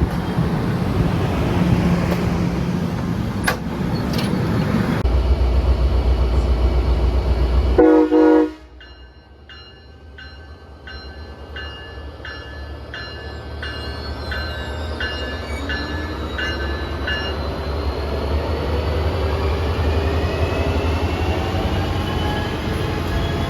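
A train passing close with the diesel locomotive's low engine rumble, ending in a brief horn note and a sudden cut. A grade-crossing bell then dings about one and a half times a second while another train's rumble and wheel noise build up, with rising whining tones near the end.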